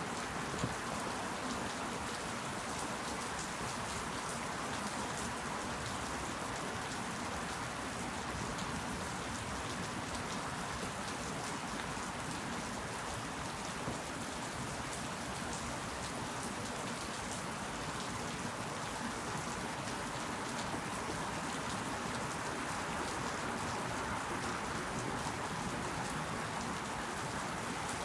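Steady rain falling, with individual drops pattering on leaves and a few sharper drop hits.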